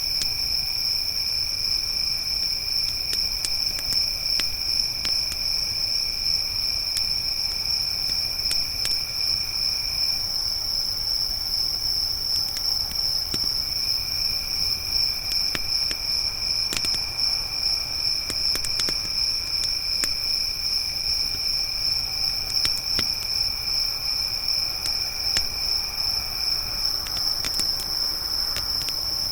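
Crickets trilling: a high, steady chorus throughout, joined by a lower trill that drops out for a few seconds around ten seconds in and stops near the end. A campfire crackles with scattered sharp pops.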